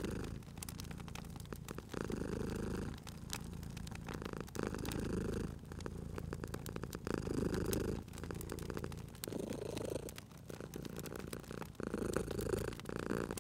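A cat purring, the purr swelling and fading with each breath about every two seconds, over the snaps and pops of a crackling wood fire.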